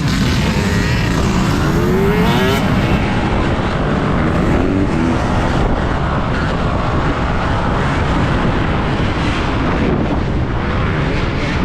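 Off-road motorbike being ridden: a loud, steady rushing noise with a motor pitch that rises briefly near the start and again about five seconds in.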